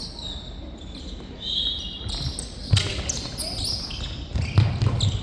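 Sneakers squeaking on an indoor sports-court floor during korfball play. A couple of heavy thumps on the floor come in the second half.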